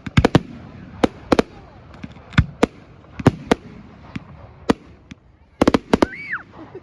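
Fireworks display: an irregular series of sharp bangs and cracks from exploding aerial shells, ending in a rapid cluster of cracks near the end.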